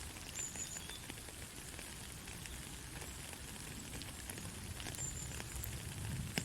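Soft rain falling steadily, with scattered drop ticks and one sharper tick near the end. Two brief high chirps come through, one near the start and one about five seconds in.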